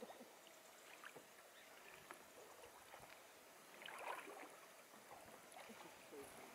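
Faint kayak paddling on calm water: light drips and small splashes from the paddle blades, with a slightly louder splash about four seconds in.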